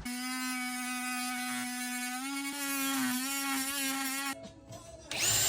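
A power tool's electric motor running with a steady buzzing whine for about four seconds, its pitch wavering slightly, then a shorter, higher-pitched whirring burst near the end.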